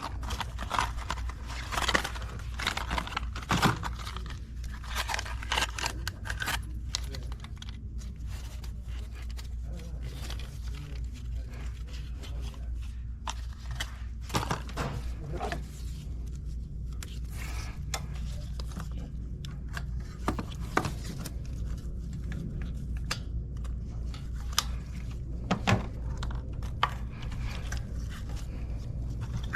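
Scattered metallic clicks, clinks and scrapes of hand tools and parts being handled during spark plug replacement, busiest in the first few seconds and sparser after, over a steady low hum.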